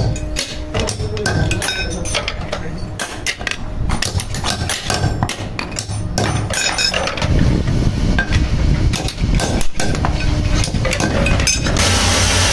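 Woodworking on a wooden loom shuttle: irregular knocks and taps of tools on wood over a low machine hum. A few seconds before the end, a louder, steady machine noise takes over.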